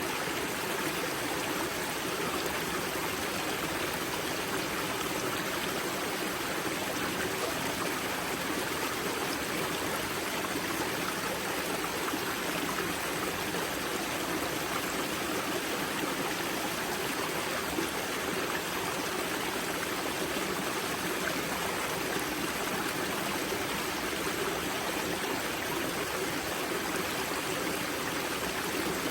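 Water of the river Grza's spring source rushing and gurgling over rocks in a steady, unbroken flow.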